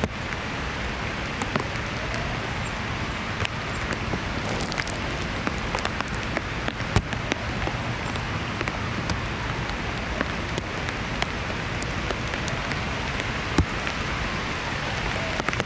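Heavy rain falling steadily, with scattered sharp ticks through the hiss.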